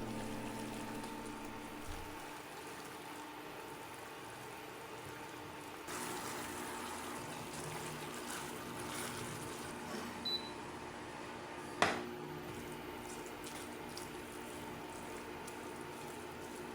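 Faint running water, a steady wash that gets louder about six seconds in, with one sharp click near the twelve-second mark.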